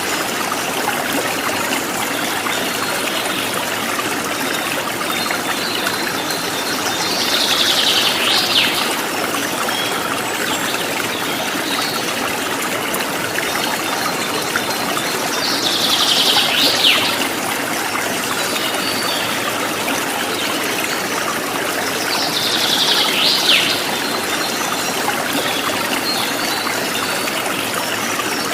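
Running water trickling steadily. Three times, about seven to eight seconds apart, a bird gives a short call that sweeps downward.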